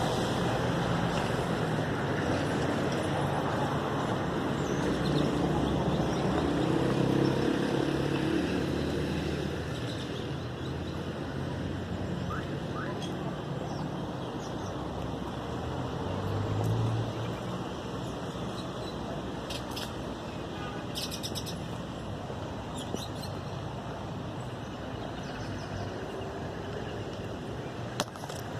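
Small birds chirping and calling over a steady hum of traffic noise. The low rumble is heaviest in the first third, and the short high chirps cluster about two-thirds of the way in.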